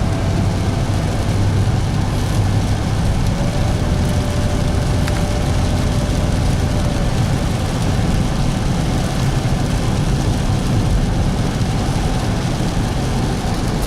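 A car driving at a steady speed, heard from inside the cabin: a constant low engine and road rumble with tyre noise.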